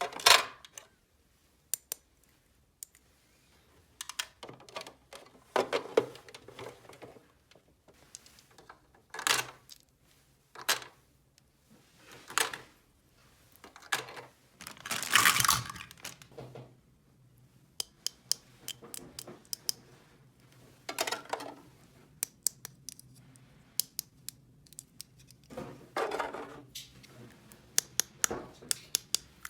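Small plastic toy pieces being handled, clicking and clattering in irregular bursts, with the longest clatter about halfway through.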